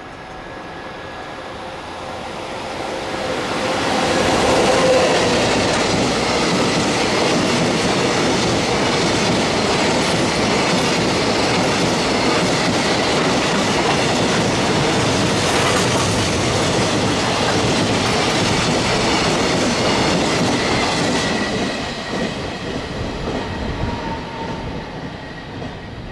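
JR Freight EF65 electric locomotive hauling a long container freight train past. The sound builds over the first four seconds as the locomotive comes by, then the container wagons roll past steadily for about fifteen seconds. It drops off a little after twenty seconds in as the last wagon goes by.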